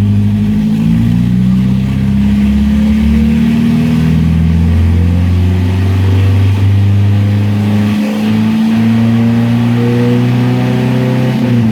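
1970 Opel GT's four-cylinder engine held at raised revs, running smoothly. Its pitch steps up a little twice early on, holds steady, then drops as the throttle comes back off near the end.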